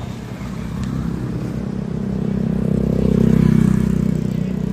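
A motor vehicle engine passing close by, swelling to its loudest about three seconds in and then fading.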